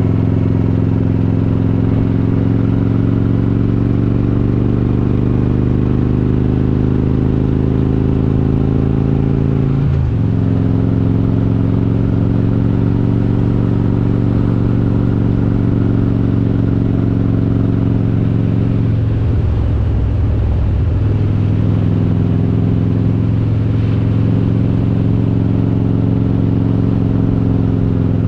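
Harley-Davidson Road King's V-twin engine, built to 95 cubic inches with S&S parts and Super Stock heads, running steadily on the road, heard from on the bike. Its note falls slowly over the first ten seconds, breaks briefly about ten seconds in, and wavers again around twenty seconds in.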